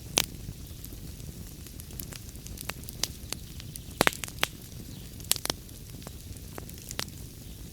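Wood fire crackling and popping over a steady low rumble of the flames, with sharp pops scattered irregularly, the loudest just after the start and around four and five seconds in.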